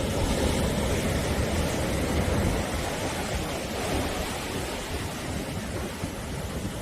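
Sea waves breaking and washing on the shore in a steady rushing roar with a deep rumble, swelling slightly in the first seconds and easing a little toward the end.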